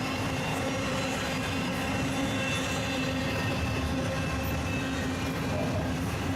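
Freight train rolling past: a steady rumble of cars on the rails with a faint, steady high squeal from the wheels.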